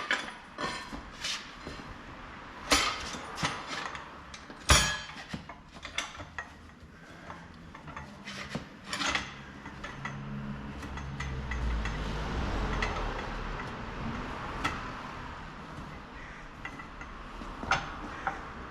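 Scattered metallic clinks and knocks of hand tools and steel parts being handled, a few sharp ones about three and five seconds in. A low rumble swells and fades in the middle.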